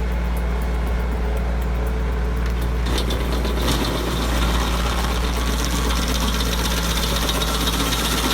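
A stump-removal machine's engine running steadily. About three seconds in, a harsher grinding or cutting noise joins it.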